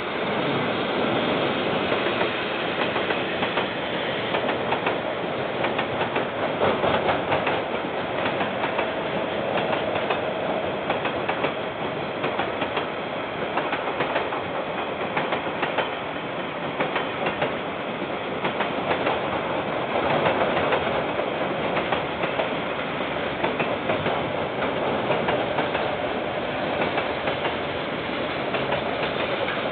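KiwiRail freight train rolling past: a steady rumble of steel wheels on rail, with rapid clicking as the wheels cross the rail joints, swelling up in the first second.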